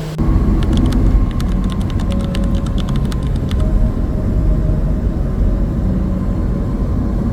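A truck driving on the highway: a loud, steady low road and engine rumble with a faint steady whine, and a run of light ticks in the first few seconds.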